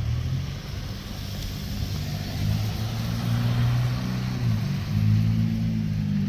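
A motor vehicle's engine running with a steady low hum, its pitch shifting about four and a half seconds in, over a faint even hiss.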